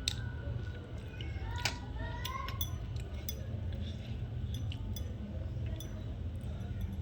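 A person eating a meal by hand: chewing with scattered light clinks of a plate, a sharper clink about a second and a half in, over a steady low hum.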